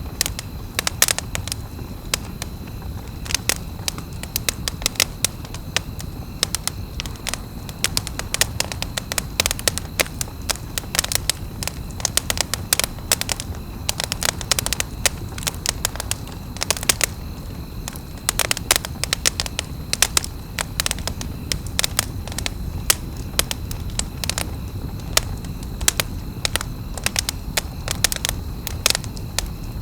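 Campfire burning, the wood crackling and popping in dense, irregular snaps over a steady low rumble of the flames.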